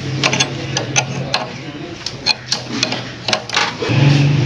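Irregular sharp metallic clicks and taps of hand tools against parts of a Honda CG125 engine's cylinder head and camshaft. A low steady hum stops about a second and a half in.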